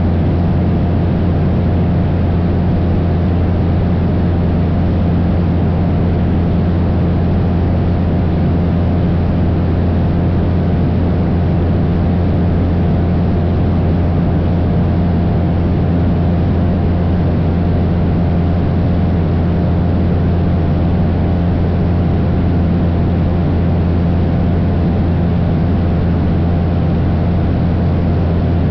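Cessna 172's piston engine and propeller droning steadily in flight, a loud unchanging low hum with a hiss of air noise over it.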